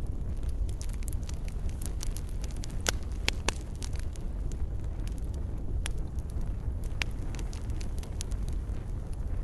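Wood fire in a fireplace crackling: a steady low rumble of burning with frequent small snaps, and a few louder pops about three seconds in and again around six and seven seconds.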